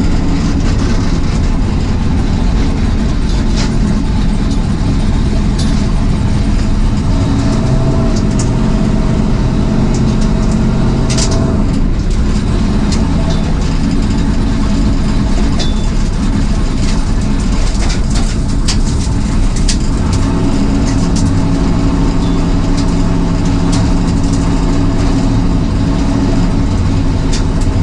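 Turbocharged drag car engine idling steadily, with a few short ticks here and there.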